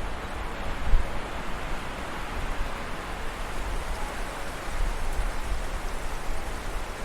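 Steady rushing of a forest stream, with a deep low rumble underneath and a brief low thump about a second in.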